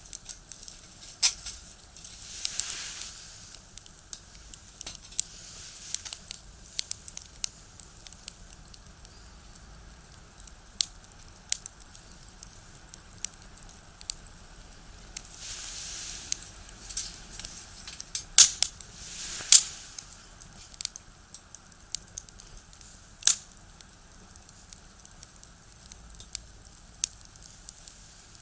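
Firewood burning in a small box stove, crackling and popping with many sharp snaps, three of them louder pops late on, and a few brief hissing swells.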